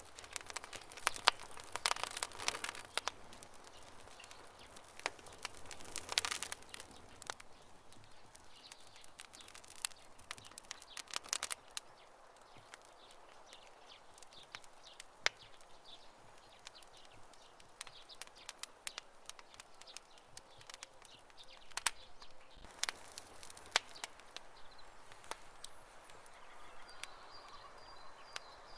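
Campfire crackling: irregular sharp snaps and pops of burning wood over a soft hiss, with dense flurries of crackles every few seconds.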